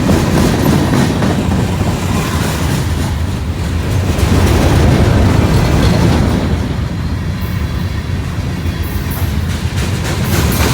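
Freight train cars rolling past at track side, the wheels clicking over rail joints with a steady rumble. The sound eases a little about two-thirds of the way through, and sharp clicks come near the end.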